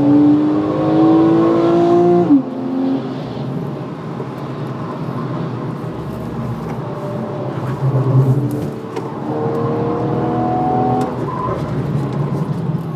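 Porsche 991 Carrera's 3.4-litre flat-six engine, heard from inside the cabin, driven hard on track. The revs climb for about two seconds and break off sharply. They pull up again later and fall away near the end.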